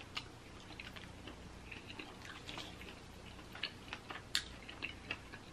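Faint chewing and small crackles of crispy fried-chicken breading as a fried chicken leg is eaten and pulled apart by hand, with scattered soft clicks and one sharper click about four and a half seconds in.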